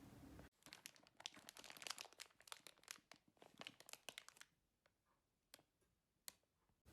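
Faint crackling and crinkling, dense for about four seconds and then thinning to a few scattered clicks.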